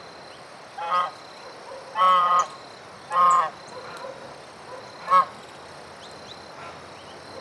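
A bird giving four loud, harsh calls about a second apart, the middle two longer than the others.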